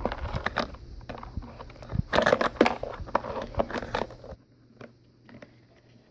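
Plastic toy parts being handled and clicked together, a run of sharp clicks and knocks with some crinkling, stopping about four seconds in.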